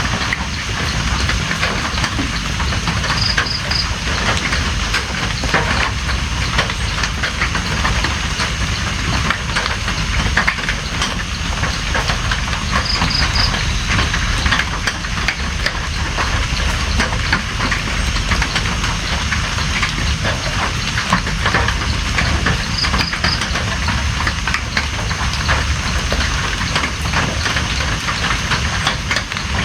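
Steady heavy rain, a dense hiss with many individual drops ticking. A short high three-pulse chirp sounds three times, about ten seconds apart.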